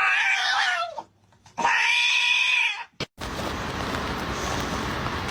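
A cat meowing twice, two drawn-out meows with a short pause between them, followed a second later by a steady rushing noise.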